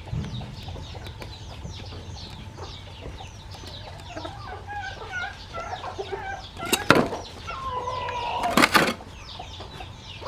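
Chickens: chicks peeping continuously in quick, high, falling chirps, with a hen clucking from about four seconds in. Two loud sudden noises come at about seven and nine seconds, with a held call between them.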